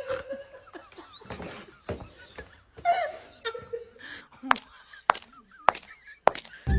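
Soft laughter from a person, broken up by a few sharp separate taps or clicks in the second half.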